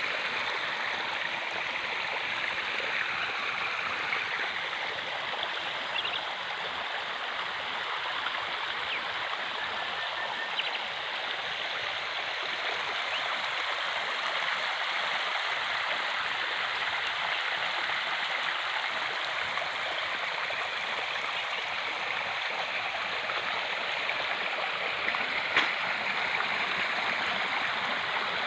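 Flowing water: a stream running steadily, with a few faint ticks and one sharper click near the end.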